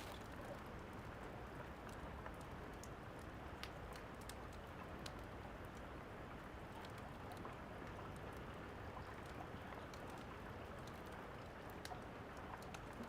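Steady rain falling, an even hiss, with scattered sharp crackles and pops of a fireplace on top.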